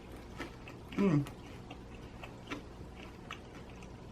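A person chewing a mouthful of extra-crispy pizza crust close to the microphone, with scattered short crunchy clicks, and one appreciative hummed "mmm" with falling pitch about a second in.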